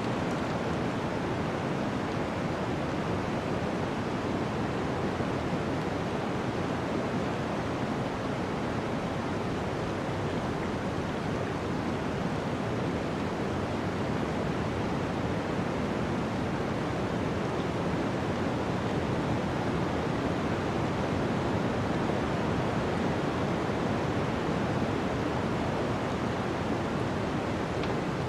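Snowstorm wind blowing as a steady, even rush without gusts or crackles.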